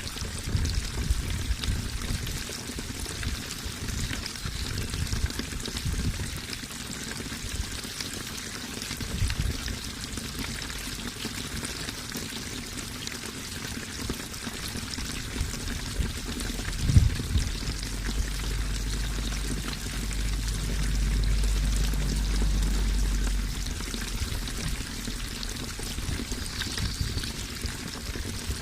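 Running water rushing and splashing steadily. A brief low knock comes past the middle, followed by a deep steady rumble underneath that lasts several seconds.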